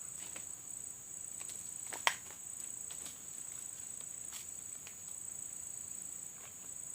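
Steady high-pitched drone of an insect chorus in the forest at dusk, with a few faint clicks and one sharper click about two seconds in.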